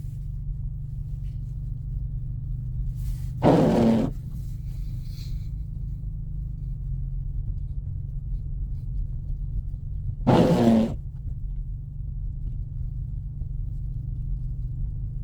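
Steady low drone of the 2024 Mustang EcoBoost's turbocharged four-cylinder and its tyres, heard from inside the cabin while driving through deep snow. Two brief, loud rushing bursts cut in, one about three and a half seconds in and another about ten seconds in.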